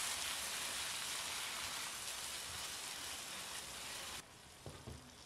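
Blended chili spice paste with onion and sauces sizzling steadily in a wok as it is stirred with a spatula, being sautéed until the onion wilts. The sizzle cuts off about four seconds in, leaving a few faint knocks.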